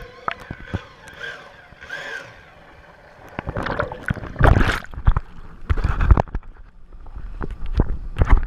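Lake water sloshing and splashing in irregular surges with sharp knocks against the camera housing, loudest from about three and a half to six seconds in and again near the end.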